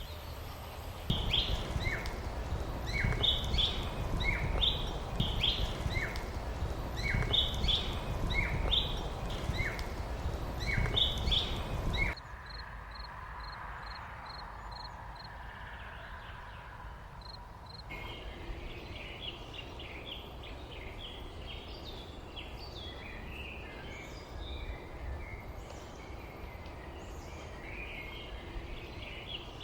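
Birds singing: a bird repeats a high note dropping to a lower one about once a second over a loud low rumble. About twelve seconds in the sound cuts abruptly to quieter birdsong, with a run of quick high ticks and then denser chirping from several birds.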